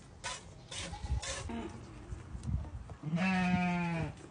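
A goat bleats once near the end: a single long, wavering call lasting about a second.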